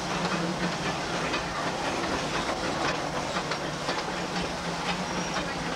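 Disneyland Railroad passenger car rolling along the track, heard from aboard: a steady running rumble and hiss with irregular clicks from the wheels.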